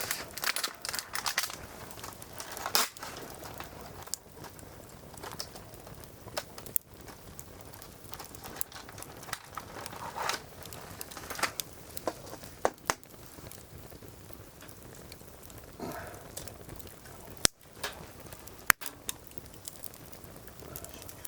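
Firewood burning in a fire grill, crackling with irregular sharp pops over a low hiss. Two sharper snaps come a little over a second apart near the end.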